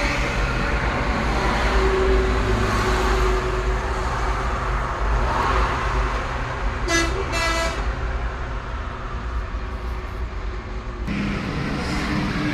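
Motor grader's diesel engine running steadily, with a horn giving two short toots about seven seconds in.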